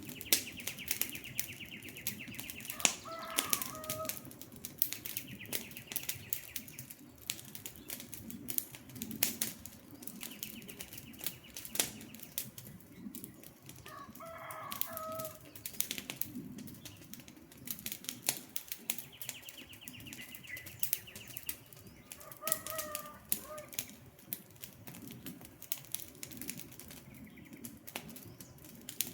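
Campfire crackling with frequent sharp pops over a low rumble of flames. A bird's rapid high trill comes four times and a short two-note call three times through it.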